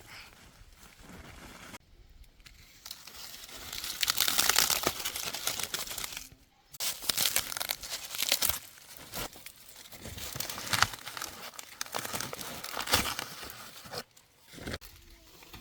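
Crinkling, rustling and tearing of dry material being handled, in irregular spells with short breaks, loudest a few seconds in.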